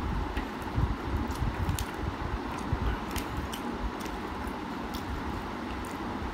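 Close-up eating sounds of a man chewing a mouthful of vegetable biryani rice, with irregular sharp mouth clicks and smacks over a steady background hiss.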